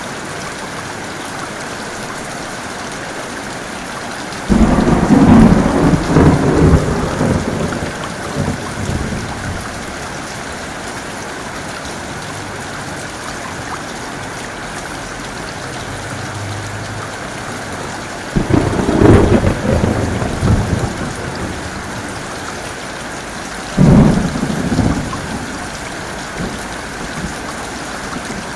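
Steady heavy rain with three thunderclaps. The first thunderclap comes about four seconds in and rumbles off over several seconds; the second comes past the middle and the third shortly after, each breaking suddenly and then rolling away.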